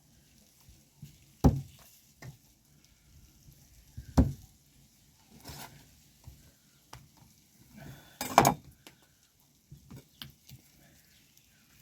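Scattered knocks and clicks as the chicken spit is handled and fitted, with a louder clatter about eight seconds in.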